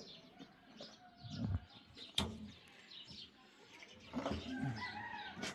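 Birds chirping in the background, with a sharp click about two seconds in.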